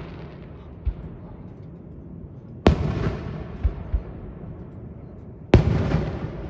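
Large aerial firework shells bursting: two sharp booms about three seconds apart, each trailing off in a long rolling echo, with fainter low thumps in between.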